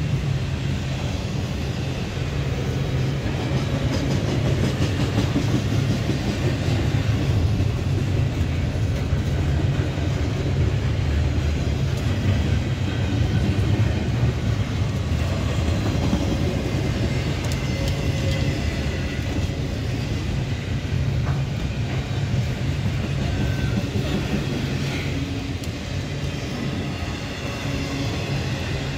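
Double-stack intermodal freight cars rolling past: a steady rumble of steel wheels on the rails.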